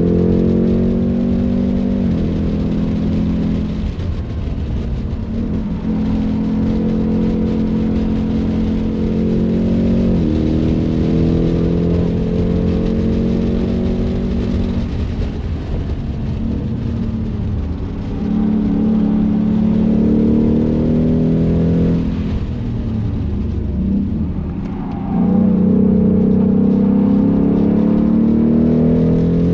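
Ford Mustang Mach 1's V8 pulling hard under acceleration, its pitch climbing and then falling back at each of several upshifts. About 22 seconds in there is a short quieter lift off the throttle before it pulls again.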